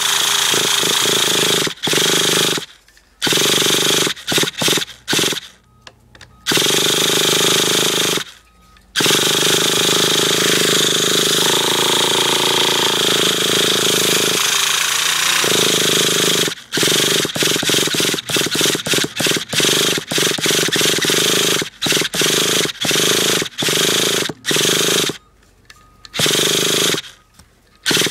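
Traxxas T-Maxx nitro RC truck engine being cranked over in long, rapid, rattling bursts with short pauses, the attempts growing choppier near the end. This is a cold start after a week or two of sitting, and the engine is not catching; it is later found to be getting no fuel to the line.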